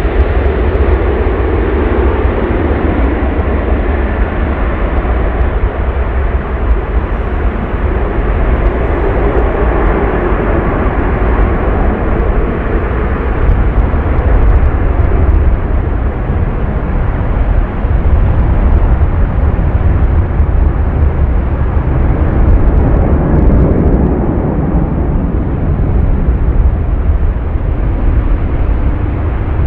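Loud, steady jet engine noise of a three-engined airliner, swelling and easing slowly.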